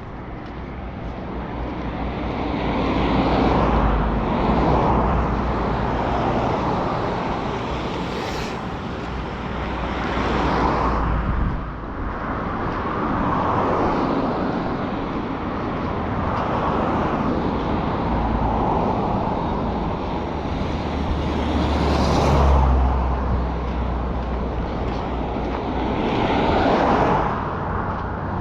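Road traffic: several motor vehicles pass one after another, each one's tyre and engine noise swelling and fading away. The loudest passes about three-quarters of the way through.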